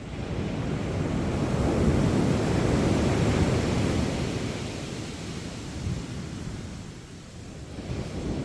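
Sea waves breaking on a sandy beach: a wave builds over the first two seconds, crashes and washes up the shore, then fades away by about seven seconds in, with the next wave starting to rise near the end.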